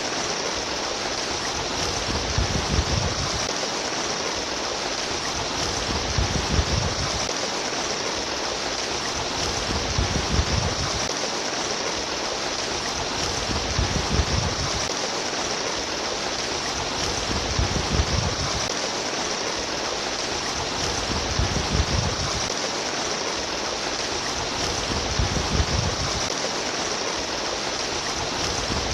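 Stream water flowing and babbling in a steady rush, with a low surge coming back about every four seconds.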